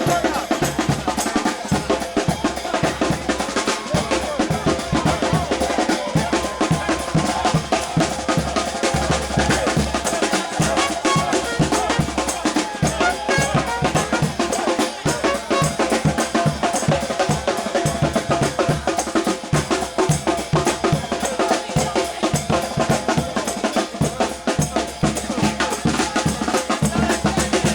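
New Orleans brass band playing a second-line groove: bass drum and snare drum driving a dense, steady beat under held horn notes.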